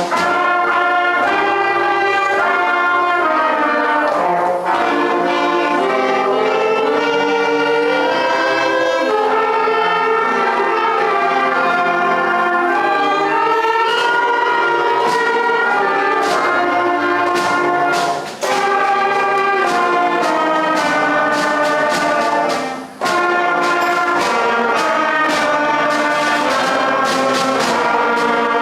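A school concert band of woodwinds and brass playing a piece, with sustained chords and moving melody lines and two brief breaks about 18 and 23 seconds in.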